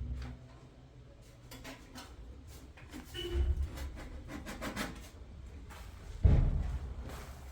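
Rubbing and scraping of things being handled, with scattered clicks and clatter, and one loud thump a little after six seconds in.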